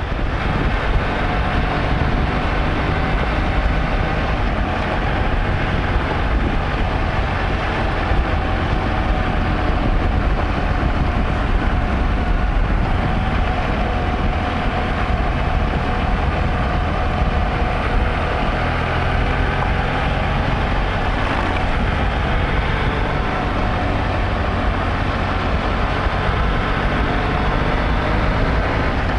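Motorcycle engine running at a steady cruising speed, with wind noise over it.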